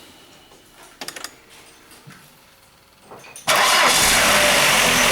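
Opel Omega B's 2.0-litre X20XEV four-cylinder engine starting warm. After a few faint clicks, it cranks briefly about three and a half seconds in, catches at once and runs steadily.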